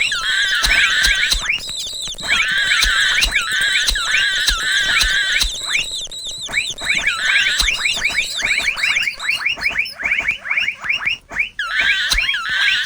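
Mouse squeaking sound effect: a continuous stream of high-pitched squeaks, wavering chirps at first, then a fast run of quick falling squeaks, several a second, in the second half.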